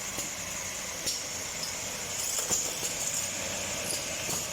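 Steel rod chamfering machine running, a steady mechanical noise with a high whine and a few light clicks.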